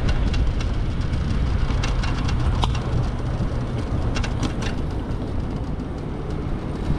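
Steady low rumble of wind on the microphone and road noise from an Onyx RCR electric moped riding through city traffic, with a few light clicks scattered through it.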